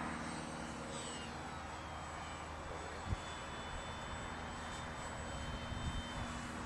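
Propeller motor of a radio-controlled model Cessna in flight, a steady drone with a faint higher whine, the pitch dipping briefly about a second in. A single short thump about three seconds in.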